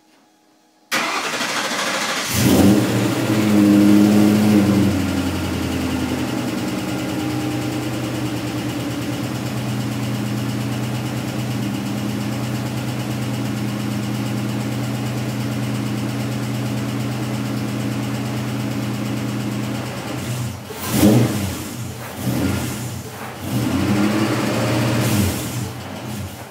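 Ford Coyote 5.0 V8, breathing through long-tube headers, an X-pipe and Magnaflow mufflers, starting up for the first time: it catches about a second in, flares up and settles to a steady high idle. Near the end it is given a few short revs.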